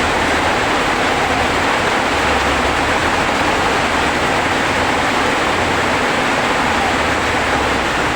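Steady hiss of heavy rain, with a low rumble that swells and fades underneath.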